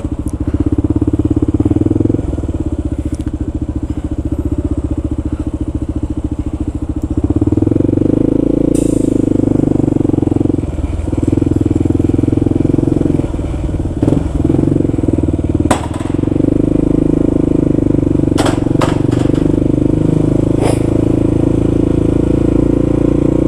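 Kawasaki KLR650's single-cylinder engine running as the motorcycle rides. The engine gets louder about seven seconds in. A few sharp clicks or knocks come through during the ride.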